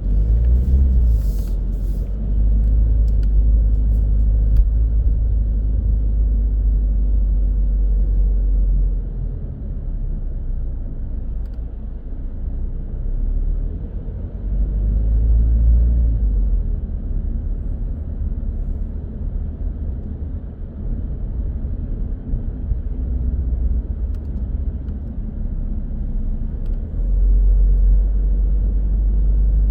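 A car driving through city traffic: low road and engine rumble that swells and eases every few seconds, with a few light clicks about one to two seconds in.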